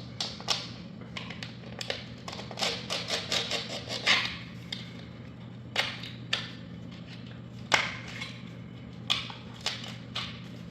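A knife cutting away the locking edge of a laminate floor plank: irregular sharp clicks and short scraping strokes, busiest in the first few seconds, with a faint steady hum underneath.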